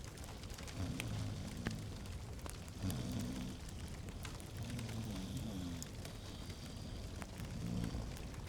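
Log fire crackling in a fireplace: scattered sharp pops over a steady low rumble.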